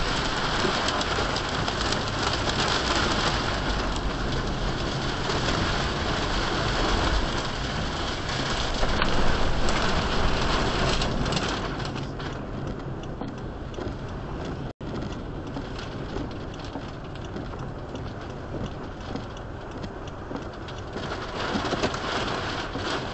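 Steady rush of rain and wind on a car, heard from inside through the dashcam, louder in the first half and easing after about twelve seconds. There is a brief dropout about two-thirds of the way through.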